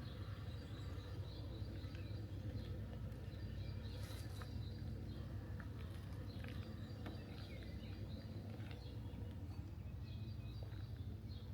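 Faint bird chirps over a steady low rumble of background noise.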